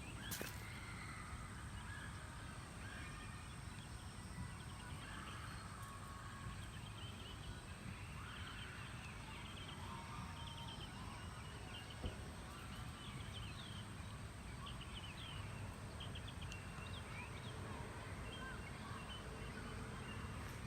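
Birds chirping and calling outdoors, many short high calls scattered throughout, over a steady low background rumble; a single brief knock about twelve seconds in.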